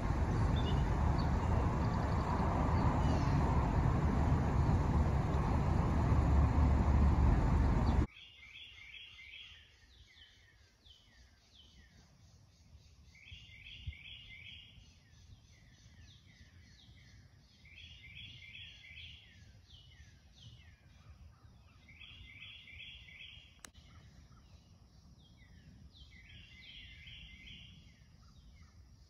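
A loud, steady rush of noise, heavy in the low end, that cuts off suddenly about eight seconds in. Then a songbird singing in the open air: a short phrase of rapid, repeated notes every four to five seconds, with scattered chirps.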